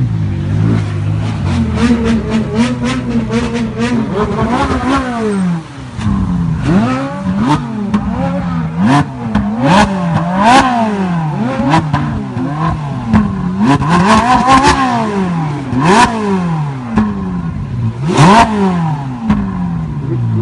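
A sports car's engine held at a steady raised idle, then blipped over and over, rising and falling about once a second, with sharp exhaust cracks on several of the blips.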